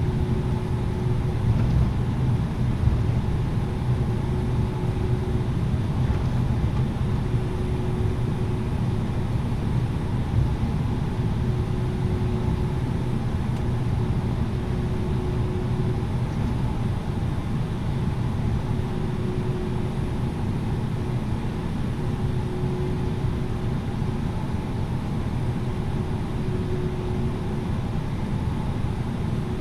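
Steady cabin noise inside an Airbus A330-900neo airliner: a low rumble from its engines and airflow, with a faint tone that comes and goes every few seconds.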